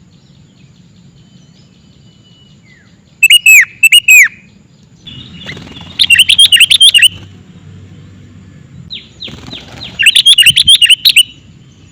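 Sooty-headed bulbul (kutilang) singing in three loud bursts of rapid chirping phrases, the first about three seconds in and the others about three seconds apart. This is kutilang lure song, the call played to draw other bulbuls in.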